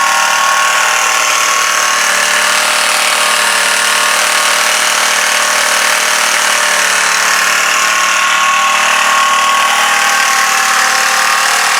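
Small petrol engine of a Clarke pressure washer running steadily without choke. The pump has been removed, so the engine runs unloaded.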